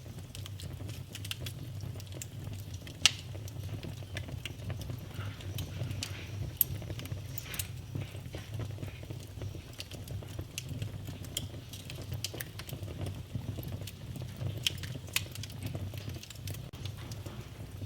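Wood fire in a fireplace crackling, with a steady low rumble under constant small crackles and a few sharper pops, the loudest about three seconds in.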